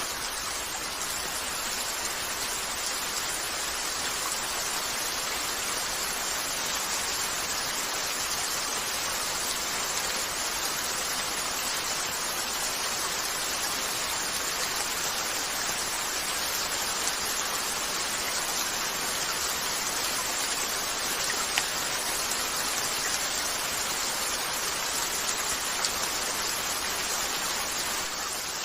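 Steady rain falling on a window, mixed with a crackling fireplace; a couple of sharper pops stand out near the end.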